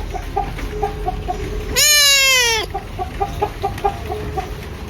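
Farm animal calls: a steady run of short clucking notes, about three or four a second, with one loud call falling in pitch about two seconds in.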